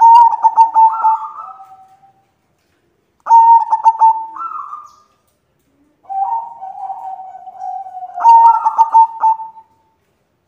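White zebra dove (perkutut) cooing: three call phrases a few seconds apart, each a run of quick repeated notes.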